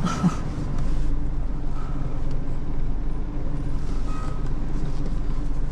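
Tow truck engine running steadily while the truck is being maneuvered into position.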